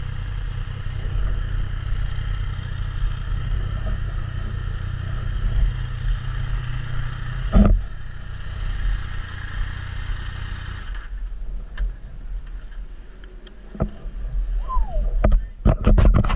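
Yamaha MT-09's three-cylinder engine running steadily at low pit-lane speed, then switched off about eleven seconds in, the engine sound stopping abruptly. Near the end come a series of knocks and rubbing as the camera is handled with a gloved hand.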